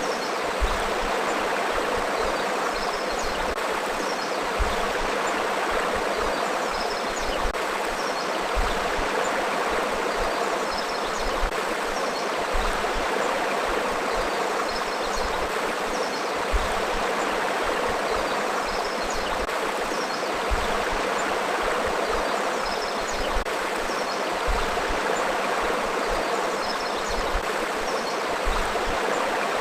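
River flowing steadily: a continuous rush and burble of moving water, with faint high chirps scattered through it.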